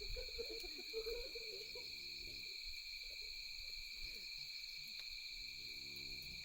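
Night insects trilling steadily at two high pitches, with low, drawn-out calls twice and faint crackles from a wood campfire.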